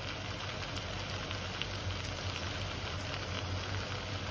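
Okra sabzi frying in a kadai over a gas flame: a steady soft sizzle with a few faint crackles.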